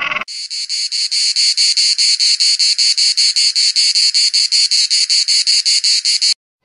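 Insect stridulation: a loud, fast, even train of shrill chirps, several a second, with a steady high pitch. It starts abruptly and cuts off abruptly near the end.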